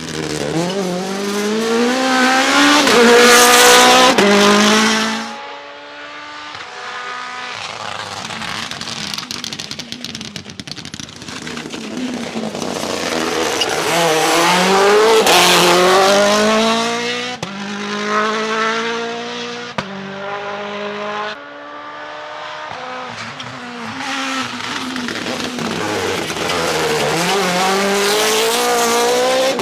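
Rally car engines revving hard through the gears, the pitch climbing and stepping down at each gear change. The sound swells loudest three times: a few seconds in, about halfway, and near the end.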